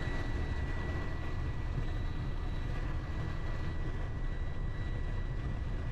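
Steady engine and road rumble inside a delivery truck's cab while it drives along, with a faint steady high-pitched whine over it.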